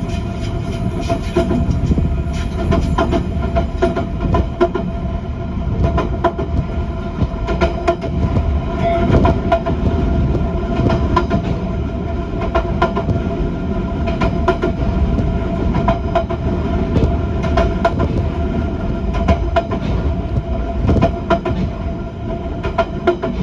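Train noise heard from inside a passenger car: a steady low rumble with a constant hum and many short clicks and rattles.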